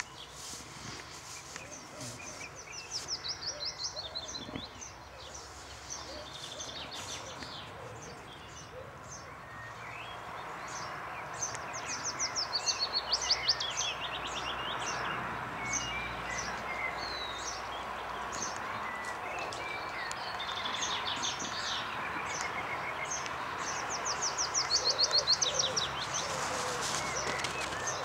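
Songbirds chirping and singing, with one bird repeating a fast trill that drops in pitch about four times. A steady background noise grows louder about ten seconds in.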